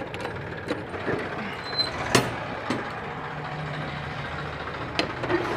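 Steady vehicle background noise with a low hum, broken by scattered clicks and one sharp knock about two seconds in.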